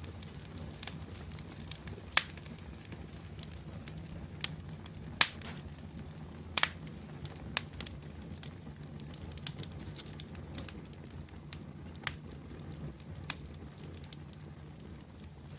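Open wood fire burning, with a steady low rush of flames and scattered sharp crackles and pops, a few louder snaps standing out.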